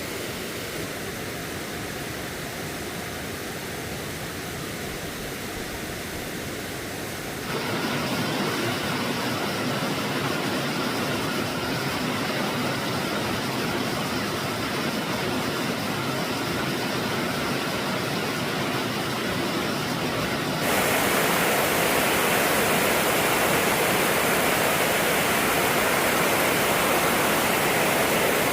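Stream water rushing steadily. It grows abruptly louder about seven seconds in and again about twenty seconds in.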